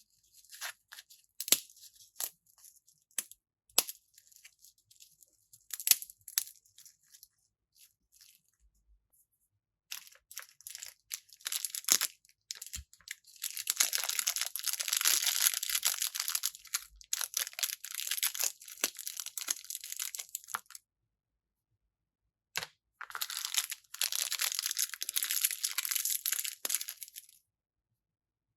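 Toy-set packaging being opened by hand: scattered clicks and short rustles, then two long stretches of crinkling and tearing wrapping, the first about seven seconds long and the second about four.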